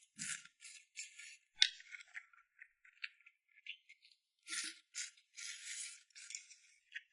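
Close-miked eating sounds: irregular short bursts of wet chewing and sucking, with one sharp click about one and a half seconds in.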